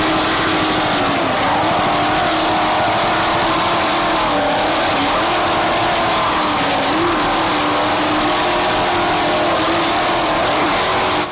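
Offshore racing powerboat's inboard engines running flat out at race speed: a loud, steady drone whose pitch wavers slightly up and down.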